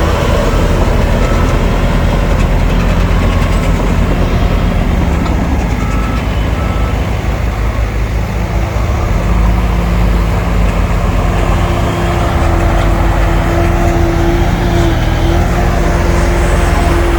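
Heavy diesel earthmoving machinery running hard. A reverse alarm beeps at an even pace for the first several seconds, and a steady engine whine rises out of the noise about halfway through.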